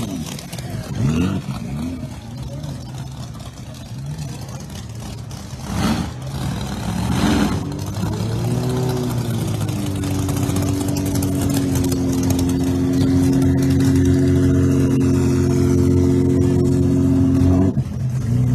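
A drag car's engine after its burnout: uneven revs with two short sharp blips around the middle, then a rise to a steady, held drone while the car is staged. The drone stops abruptly near the end.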